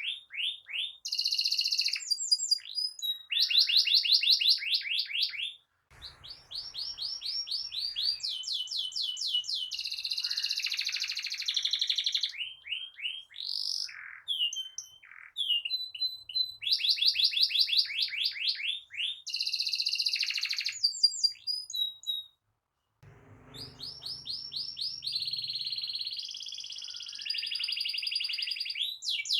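Domestic canary singing a long song of rapid rolling trills and fast repeated high notes, with short pauses between phrases. The sound drops out briefly twice.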